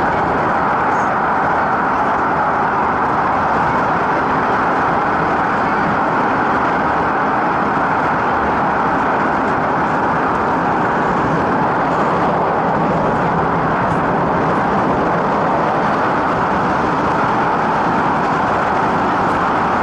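Steady running noise inside a carriage of an MTR MLR (refurbished Metro-Cammell) electric multiple-unit train under way: wheels on rail and traction equipment as a constant rushing hum that holds the same level throughout.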